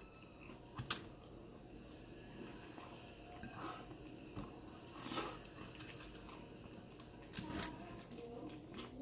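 A person chewing a mouthful of soft corn taco with vegan cheese and vegetables, with a few short wet mouth clicks and smacks: one about a second in, one around five seconds, and a couple near seven and a half seconds.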